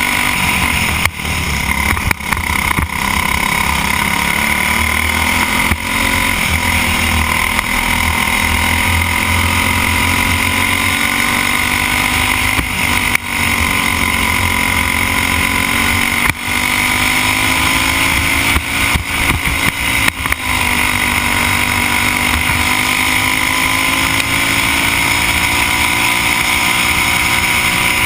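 Briggs & Stratton Animal single-cylinder four-stroke kart engine running hard at racing speed, its pitch dropping several times as the throttle comes off for corners and climbing again down the straights.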